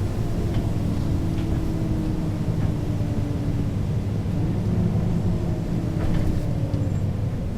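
Mercedes-Benz O 530 G Citaro G articulated bus with ZF automatic gearbox, its diesel engine running under way; the engine note steps up in pitch about halfway through and drops again near the end.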